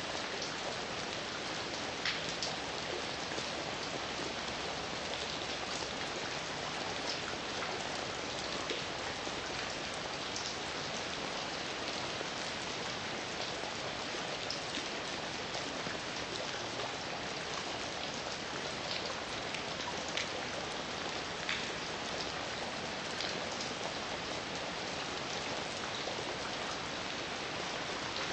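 Steady heavy rain, a dense hiss with individual drops ticking sharply on a surface here and there.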